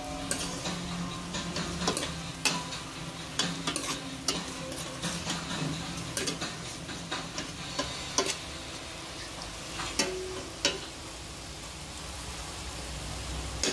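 Pork and shrimp sizzling in a hot pot while a metal spoon stirs them, with repeated clinks and scrapes of the spoon against the pot.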